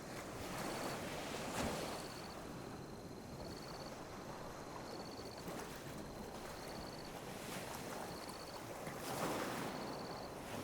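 Small sea waves lapping and washing onto a beach, a steady wash that swells twice, about a second and a half in and again near the end. A faint high chirp repeats about once a second over it.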